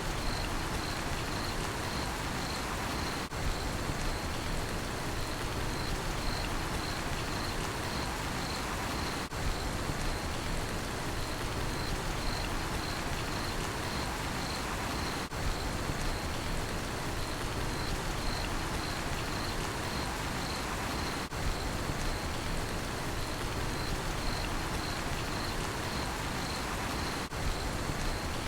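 Steady rain falling, with a cricket chirping in a regular pulsed rhythm over it. The sound dips briefly about every six seconds.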